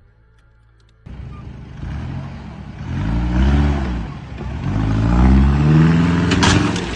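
A motor vehicle's engine starts in suddenly and revs up and eases off twice, with a couple of sharp clicks near the end.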